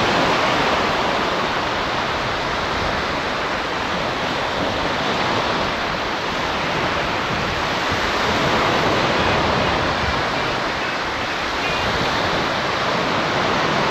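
Sea surf washing on a beach: a steady rush of breaking waves that swells slightly and eases again.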